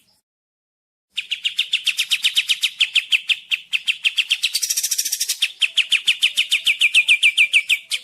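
Recorded song of a kapas tembak songbird: after a second of silence, a long fast run of sharp, evenly repeated chirping notes, about seven or eight a second, with a harsher, hissy passage midway.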